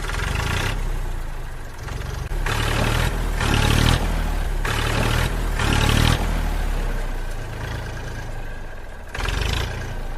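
Small engine running steadily, revved up in about five short bursts.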